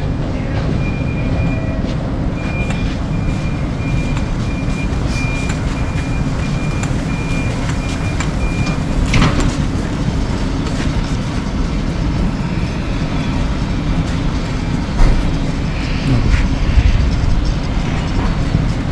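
Steady low rumble of a train standing at the platform, with a high electronic beeping that repeats in short and long dashes for the first half and then stops. A sharp knock about halfway and another near the end.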